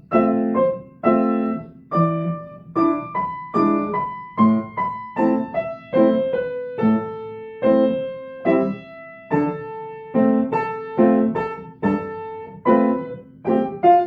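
Piano played slowly, a passage of octaves and chords struck one after another, each ringing and decaying before the next, with low bass octaves under the melody.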